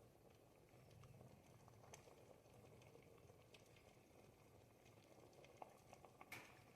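Pot of thick ribollita soup simmering faintly: a low steady burble with scattered small pops, and one sharper pop near the end.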